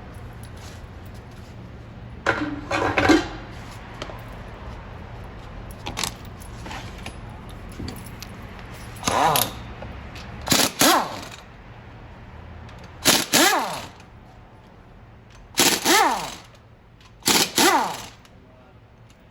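Power impact wrench run in about six short bursts, each under a second, its pitch rising and falling as it hammers bolts loose on the front of the engine.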